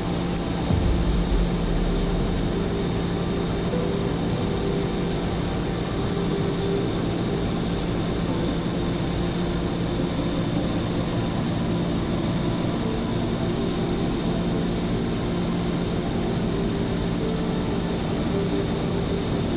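Seaplane propeller engine running with a steady drone in flight, with a brief low thump about a second in.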